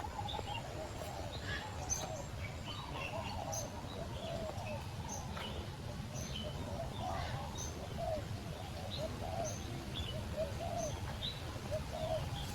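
Many birds chirping and calling at once: scattered short, high chirps over a busy run of lower calls, with a steady low rumble underneath.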